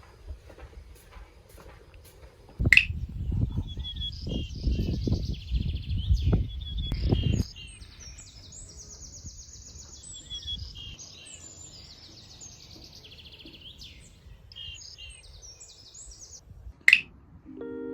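Birds chirping with quick, repeated trilled notes. A loud low rumble runs under them for about five seconds near the start, and there is a sharp click near the start and another near the end.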